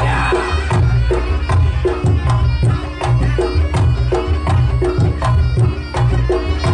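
Reog Ponorogo gamelan accompaniment: hand drums beat a steady, busy rhythm under ringing pitched percussion.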